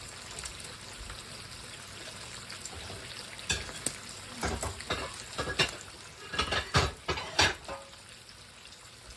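Bacon frying in a pan with a steady sizzle; from about three and a half seconds in, a run of sharp clatters and knocks for several seconds.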